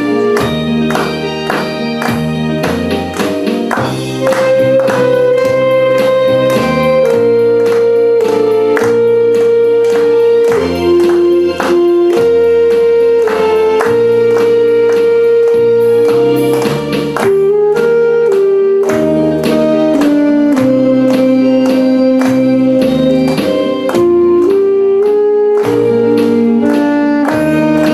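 Saxophone playing a slow melody of long held notes over a backing track with a steady beat and bass.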